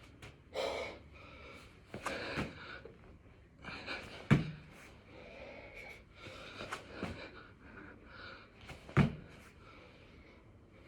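A man breathing hard and gasping between six-count burpees, with two heavy thuds of his body landing on the floor, about four and nine seconds in.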